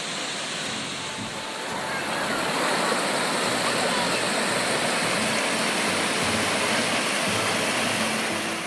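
Waterfall: a steady rush of falling water that grows louder about two seconds in.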